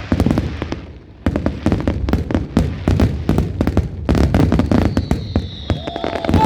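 Fireworks going off in a dense run of crackling pops and bangs, briefly easing about a second in, then crackling thickly again.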